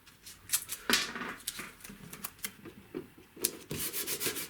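Tape being pulled off the roll and handled: a run of sharp crackling clicks and rustles, busiest near the end.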